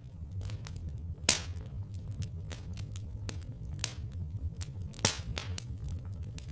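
Wood fire crackling with irregular snaps and pops, two loud sharp pops about a second in and about five seconds in, over a low steady rumble.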